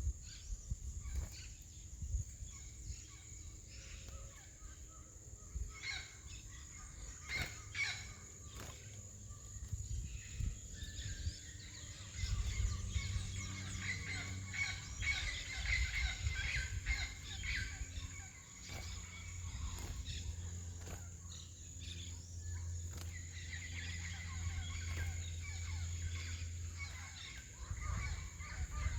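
Caged curió (chestnut-bellied seed-finch) singing in bursts of quick chirping phrases, the longest starting about twelve seconds in, over a steady high-pitched tone and a low rumble.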